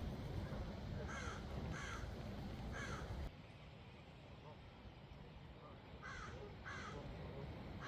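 Short harsh bird calls, three in the first three seconds and three more near the end, over a low rumble that cuts off suddenly about three seconds in.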